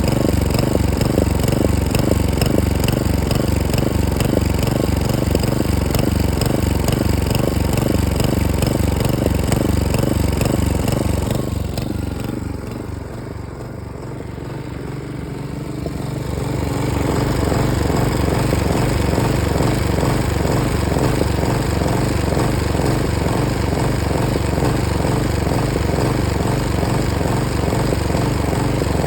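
Hyft60sp lawn mower engine running with an uneven, pulsing beat: the engine is misfiring. About halfway through it falls quieter for a few seconds, then picks back up.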